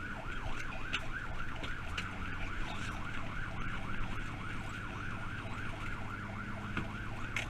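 Emergency vehicle siren in a rapid yelp, rising and falling about four times a second, with a vehicle engine running steadily underneath.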